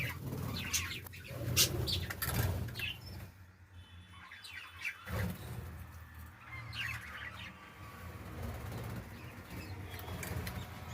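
Budgerigars chirping in short, high calls in two spells, with wings fluttering.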